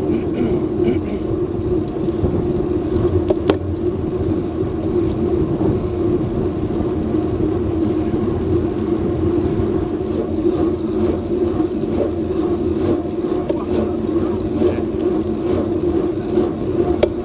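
Steady hum of bicycle tyres rolling on pavement at speed, one constant low drone, with wind buffeting the action-camera microphone.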